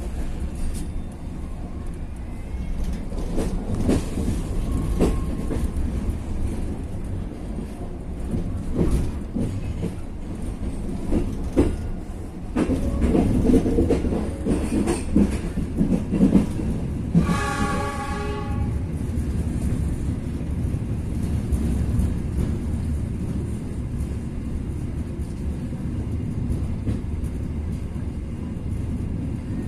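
Passenger train rolling through a station yard: a steady rumble of wheels on rails with irregular clicks and clatters over rail joints and points. A horn sounds once, for over a second, a little past halfway.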